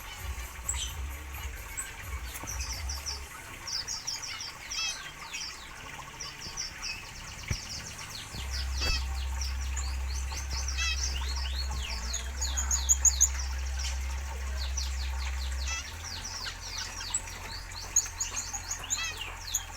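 A flock of zebra finches chirping continuously in an aviary, many short, quick calls overlapping. A steady low rumble runs underneath for several seconds in the middle.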